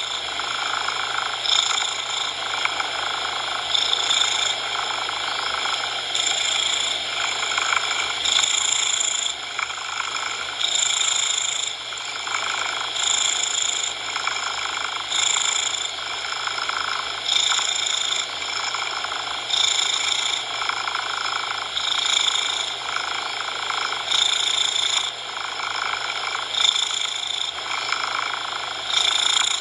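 Domestic cat purring in a steady rhythm that swells about every two seconds with its breaths, over a constant bed of synthetic coloured noise.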